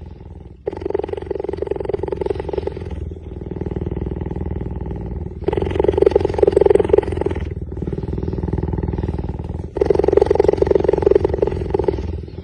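Wild cat vocalising in a repeated cycle: three loud, pulsing bouts, each about two seconds long and about four seconds apart, with a quieter, steady low rumble between them.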